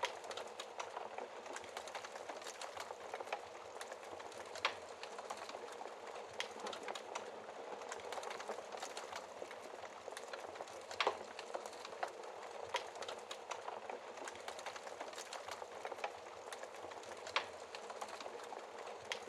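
Wood fire crackling steadily in a fireplace, with many small snaps and a few louder pops, one about five seconds in, another near the middle and one near the end.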